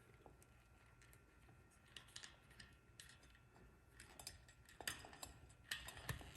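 Faint, scattered clicks and small scrapes of electrical wires and twist-on wire connectors being handled, a few more of them in the second half.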